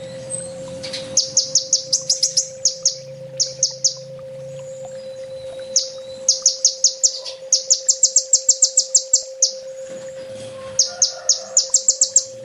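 A kolibri ninja sunbird singing in runs of rapid, sharp, high-pitched chirps, several a second. There are three runs: in the first few seconds, in the middle, and near the end, with short pauses between them. A steady hum runs beneath.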